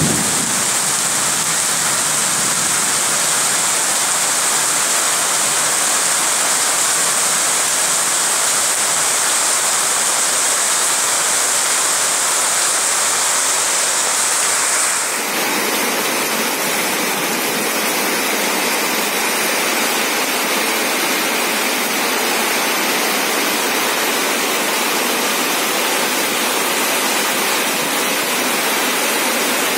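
Heavy tropical rain pouring down steadily, a dense hiss of falling water. Its tone shifts abruptly about halfway through.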